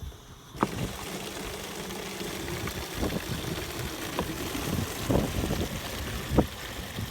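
Water from a hose running into a plastic gallon jug, starting suddenly about half a second in and then rushing steadily, with a few brief thumps.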